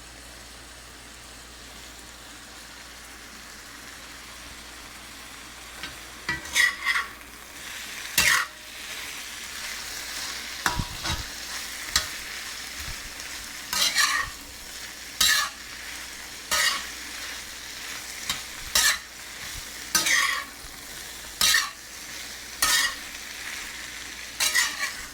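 Vegetables (string beans, snow peas, peppers and mushrooms) sizzling steadily in a hot cast-iron pan. From about six seconds in, they are stirred in about ten loud, regular strokes, roughly one a second, over the sizzle.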